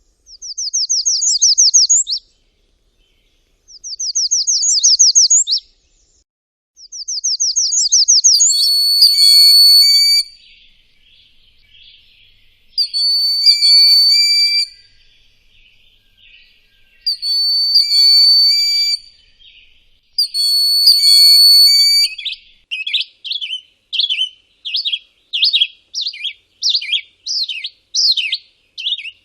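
Birds singing. Three quick trills of rapid high notes come first, then four long, steady whistled notes over a buzzy chatter, then a fast run of short chirps near the end.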